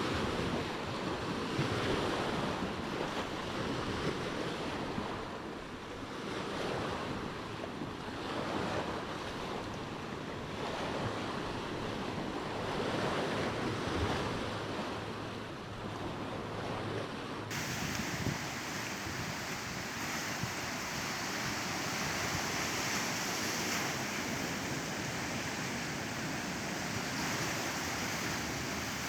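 Ocean waves breaking and washing on a shore: a rushing surge that swells and falls every few seconds. About two-thirds of the way through, the sound abruptly turns brighter and hissier.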